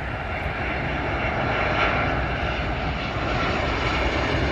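Southwest Boeing 737-800 jet airliner passing on landing approach, its twin CFM56 turbofan engines giving a steady rumble that slowly grows louder, with a faint whine over it.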